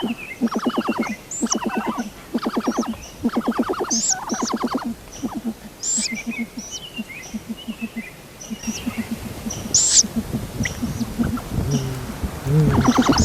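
Birds calling: short rattling trills repeated about every second, mixed with high thin chirps. A lower, louder calling comes in near the end.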